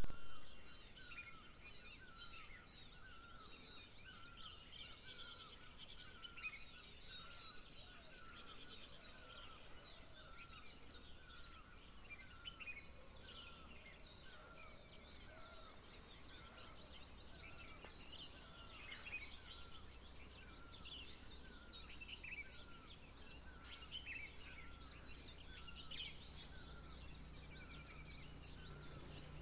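Many birds calling and singing at once, a dense mix of high chirps and trills, with one short call repeated steadily about once a second.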